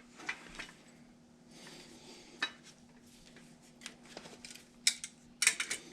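Hand tools clinking and tapping against metal furnace parts during a repair: a few scattered sharp clicks, then a quick cluster of clinks near the end. A steady low hum runs underneath.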